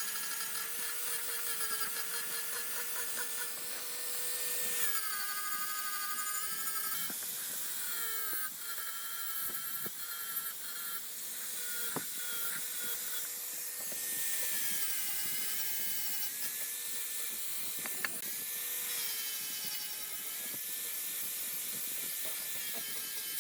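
A small electric power tool's motor running with a steady whine whose pitch dips briefly a few times as it takes load. Two sharp clicks sound, one about halfway through and one later.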